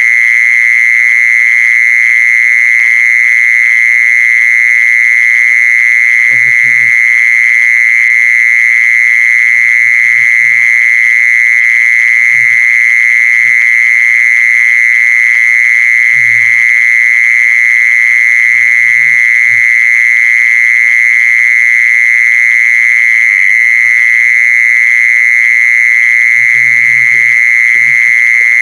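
Insect known in Thai as jee-son (แมลงจีซอน) calling: one loud, steady, high-pitched buzzing trill held without a break. Faint low murmurs come and go underneath.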